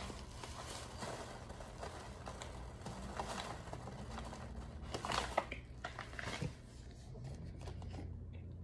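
Crunching and chewing of dry chalky mineral chunks: a dense run of small crackles and clicks, loudest about five seconds in, then dying down to a faint crackle.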